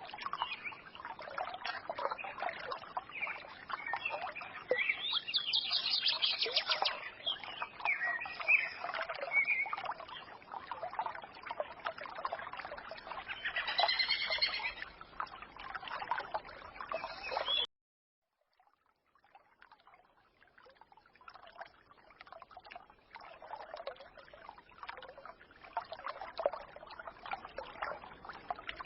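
Forest stream trickling and splashing while small birds chirp and twitter over it. About two-thirds of the way through, the sound cuts off suddenly to silence for a second or two, then fades back in more quietly.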